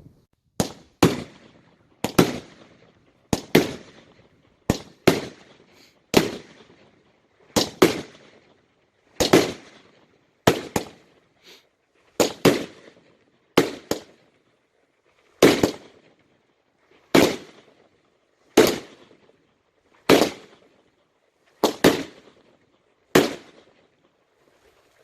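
Fireworks going off in a steady series of sharp bangs, often in quick pairs, about one every second, each with a short echoing tail; the firing stops near the end.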